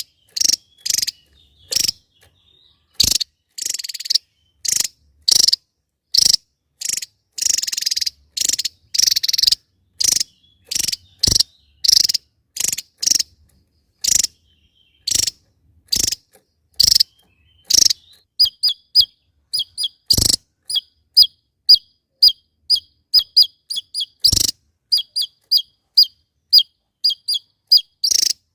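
Small songbird calls repeated about twice a second: harsh, rasping notes at first, then after about eighteen seconds short, clear chirps that each drop in pitch. A couple of sharp clicks stand out among the later chirps.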